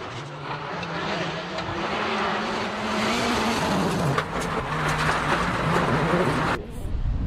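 Mitsubishi Lancer WRC05 rally car's turbocharged four-cylinder engine running hard, its revs rising and falling through gear changes, over loud tyre and road noise. The sound briefly drops away about six and a half seconds in, then picks up again.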